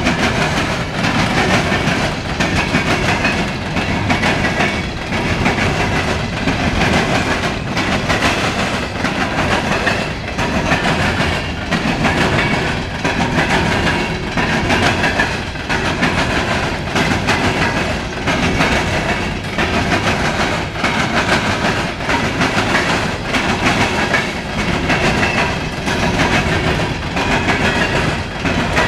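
CSX coal train's open-top coal cars rolling past, steel wheels clicking rhythmically over the rail joints above a continuous rumble.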